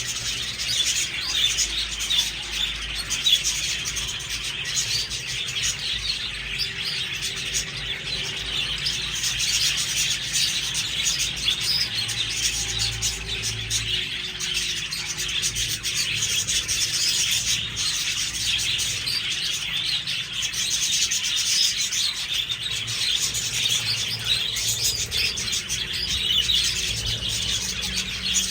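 A flock of budgerigars chattering and chirping in a continuous, dense twitter.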